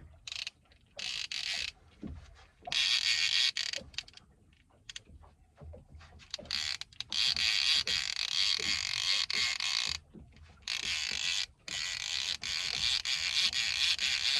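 Fishing reel being cranked to wind in a hooked fish, its gears whirring in spells of one to three seconds with short pauses between.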